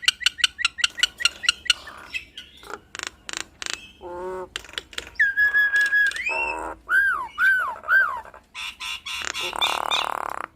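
Nias hill myna calling in varied, mimic-like phrases. It opens with a rapid clicking rattle. About halfway through comes a long level whistle, then three short arched whistled notes, and near the end a harsh rasping call.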